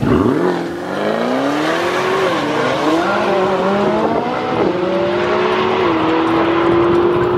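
Chevrolet Camaro launching from a drag-strip start line and accelerating hard down the quarter mile, the engine note climbing and dropping back at each upshift, several times.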